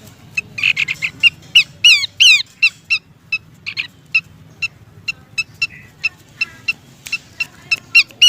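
Pelanduk semak (Horsfield's babbler) calling: a rapid run of short, sharp notes, several of them quick downward-sweeping whistles, starting about half a second in.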